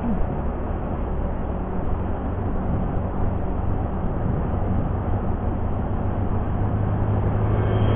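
Yamaha Jupiter MX motorcycle's single-cylinder four-stroke engine running steadily on the move, with road and wind noise. The engine hum grows a little louder near the end.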